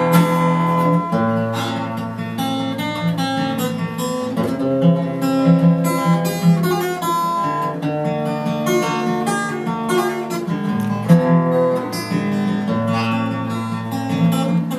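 Instrumental break of a pop ballad: acoustic guitar picking and strumming a melody over a steady bass line, with no singing.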